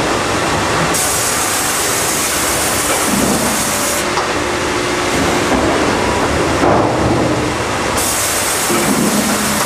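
Sawmill line machinery for cutting pallet boards running loudly, with a high hissing cutting noise that starts about a second in, stops after about three seconds, and starts again near the end.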